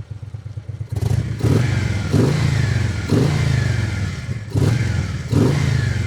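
Harley-Davidson Road King Classic's 96-cubic-inch Twin Cam V-twin, with open air filters and its exhaust flap closed, idling and then, from about a second in, revved in about six quick throttle blips, each rising and dropping back. Heard close at the exhaust outlet.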